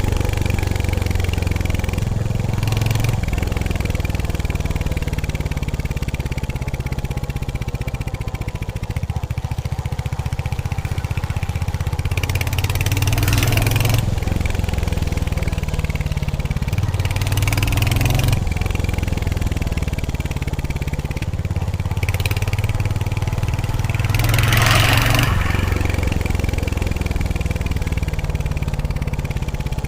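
Royal Enfield Hunter 350's single-cylinder engine and exhaust running while riding, the engine note shifting in steps as the throttle opens and closes. Several brief hissing swells of noise come over it, about five times.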